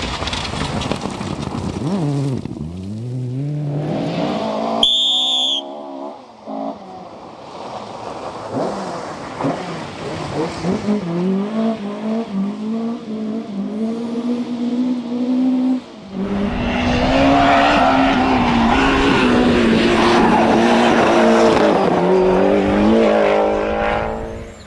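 Rally car engine running hard, its pitch climbing and dropping through repeated gear changes as the car drives the stage. A short, high-pitched tone sounds about five seconds in. The loudest, most sustained stretch comes in the last third, when the car is at full throttle close by.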